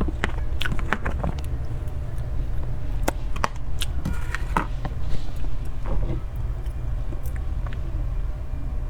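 Someone eating cream cake close to the microphone: soft chewing with scattered short mouth clicks, over a steady low hum.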